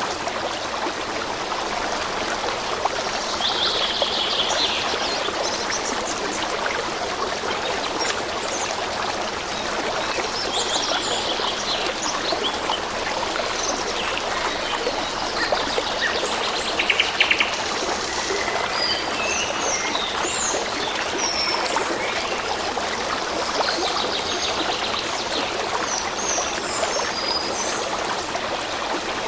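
Forest stream running steadily, with small songbirds chirping and giving short trills over it several times.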